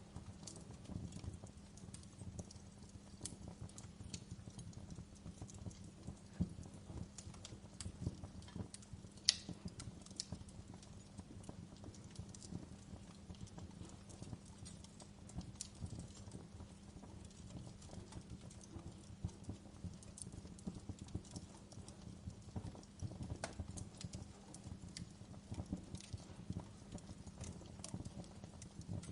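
Fireplace fire crackling: a low steady rumble with irregular pops and snaps, one sharper pop about nine seconds in.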